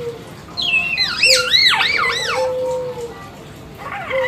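Hill myna whistling: a run of four or five looping whistled notes that sweep up and down, starting under a second in and lasting about two seconds, over a lower held tone. A short further call comes near the end.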